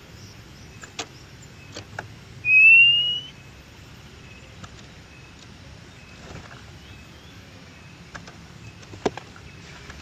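An oriental magpie-robin gives one loud, clear, rising whistle a little over two seconds in, over a steady outdoor background hum and a few faint sharp clicks.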